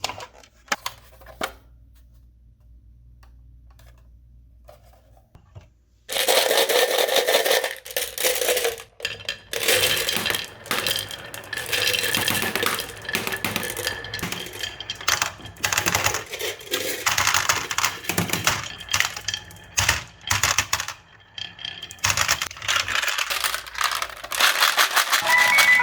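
Marbles rolling and clacking down a rain-gutter and wooden-rail marble run: a few single clicks, then from about six seconds in a dense, irregular clatter of clacks and rattles.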